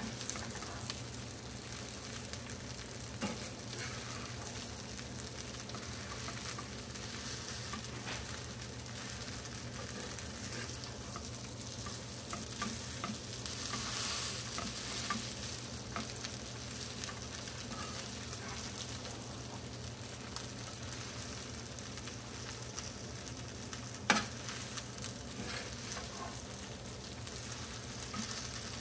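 Salmon fried rice with orange peel sizzling in a frying pan as it is stirred and tossed with a wooden spatula and a metal spoon, with scattered scrapes and taps of the utensils against the pan. One sharper knock stands out about four seconds before the end.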